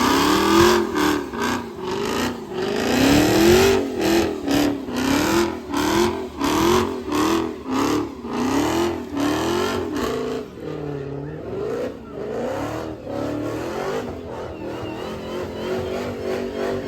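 Car engine revved over and over, its pitch swooping up and falling back about once every three-quarters of a second, then settling into steadier, quieter running about ten seconds in.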